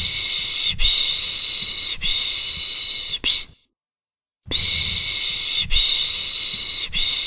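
A person's shushing 'pışş' sound for soothing a baby: a run of long hisses with a short one at the end, a pause of about a second near the middle, then the run starting again.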